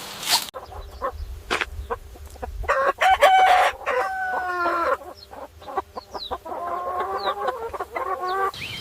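Chickens calling: a few short clucks, then several drawn-out pitched calls, with the longest near the end.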